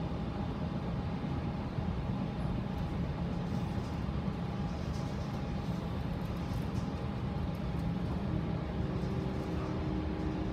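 Passenger train running at speed, heard from inside the car: a steady low rumble of wheels on rails with a faint steady whine over it.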